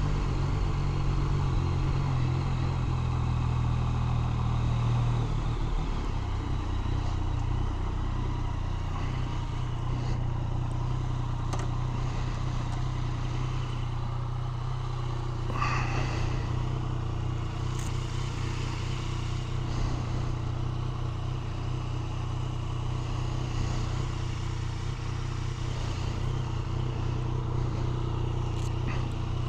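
Yamaha FZ-09's three-cylinder engine running at steady low revs, the note dropping slightly about six seconds in.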